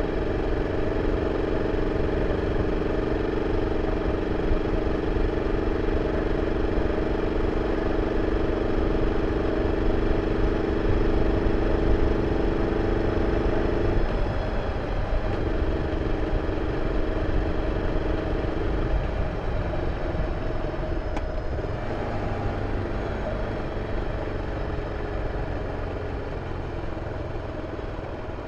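BMW F 650 CS single-cylinder engine running on its original exhaust, a steady drone over a low rumble. The note breaks off briefly about fourteen seconds in, comes back, and falls away after about nineteen seconds.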